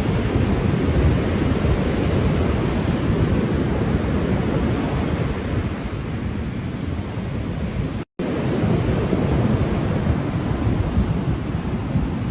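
Ocean surf: a steady rush of breaking waves, heaviest in the low rumble. About eight seconds in, the sound cuts out completely for a split second, then resumes.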